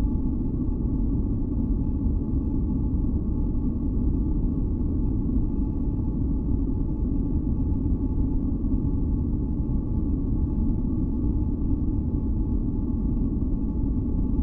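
Steady masking-noise track for sleep, deep and rumbling, with a few faint high tones held steady over it. It does not change at all.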